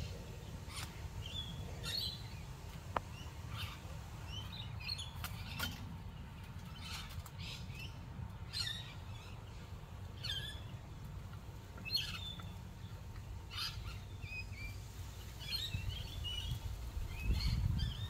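Birds calling: short chirps and calls scattered throughout, over a steady low rumble that grows louder near the end.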